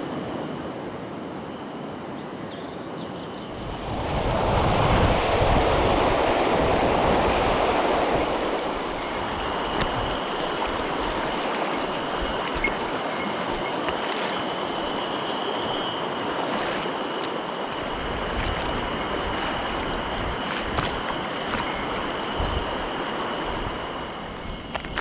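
Mountain stream water rushing over rocks, a steady noise that grows louder for a few seconds about four seconds in. A thin, steady high tone sits above it from about nine seconds on.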